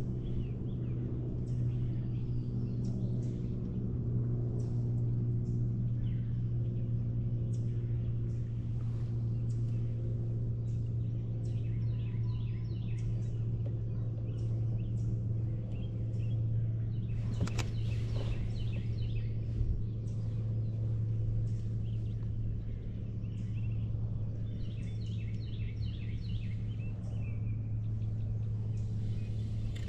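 A steady low hum, with birds chirping in short, quick trills several times over it.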